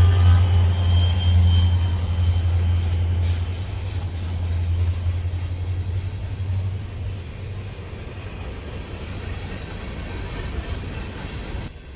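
Diesel freight locomotive rumbling past and slowly fading away, its deep engine drone dying down over several seconds. A horn blast cuts off right at the start.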